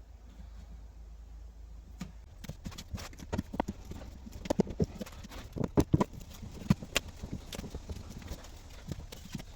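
Irregular knocks and taps, starting about two seconds in, from hands working on the Land Rover Defender's rear body panels while laying sound-deadening padding.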